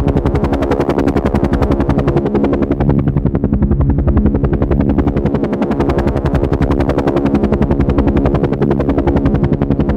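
Helicopter running, its rotor blades chopping in a rapid, even beat over a steady engine drone.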